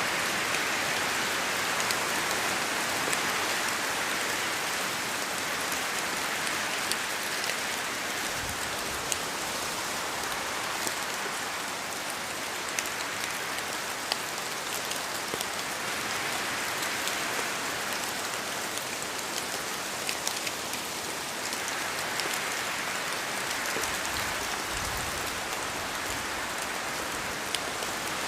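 Rain falling in a forest, drops pattering on leaves and dripping from the trees: a steady hiss with many separate drops ticking through it. The hiss swells and eases in slow waves, with a couple of brief low rumbles.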